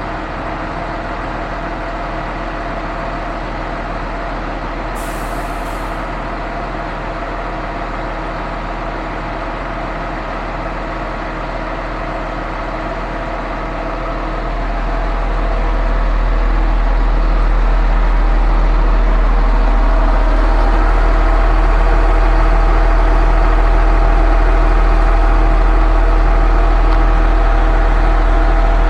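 Diesel engine of a truck-mounted concrete pump running steadily, with a short hiss about five seconds in; about halfway through the engine speeds up and grows louder and deeper, and it holds there.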